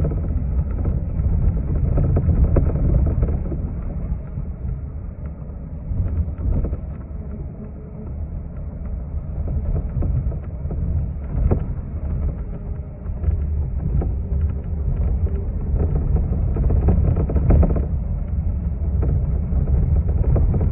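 City transit bus heard from inside while it drives: a steady low engine and road rumble with tyre noise and occasional knocks and rattles from the body.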